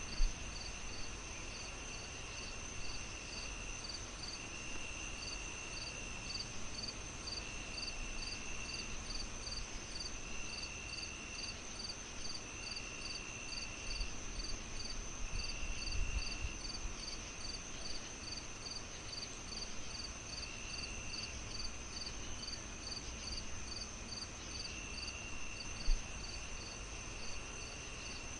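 Crickets chirping: a steady high trill, evenly pulsed chirps about two a second, and lower trills coming in spells of a second or two, over a low rumbling bed. There are two short low thumps, one right at the start and one near the end.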